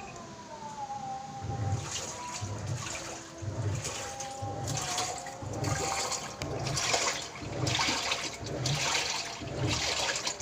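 Sharp 10 kg single-tub automatic washing machine agitating a wash load: the pulsator swings back and forth, sloshing the water in a steady rhythm of about one surge a second, starting about a second and a half in.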